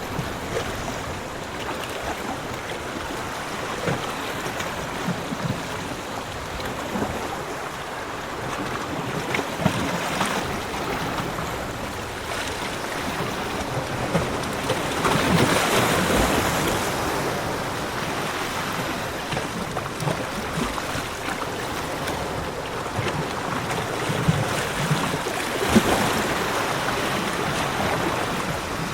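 Ocean waves washing on a beach, with a steady surf wash that swells as larger waves break about halfway through and again near the end.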